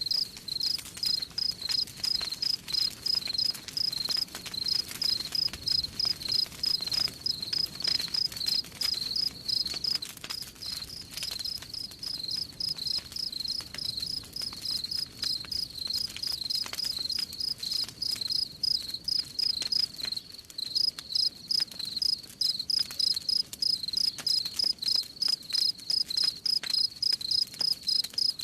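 Crickets chirping in a steady pulse, about three chirps a second, over the faint crackle and pops of a wood fire.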